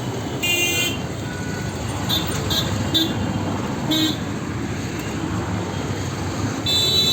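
Busy Indian street traffic: a steady rumble of vehicles with horns honking. One horn blast comes about half a second in, several short toots follow in the middle, and a longer horn starts near the end.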